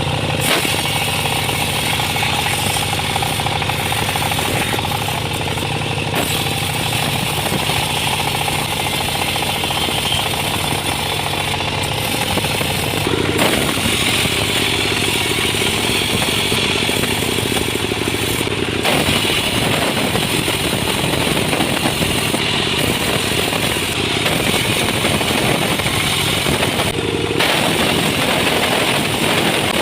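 Sawmill machinery running: an engine-driven saw with a steady mechanical drone and a higher hiss. The sound changes abruptly a few times.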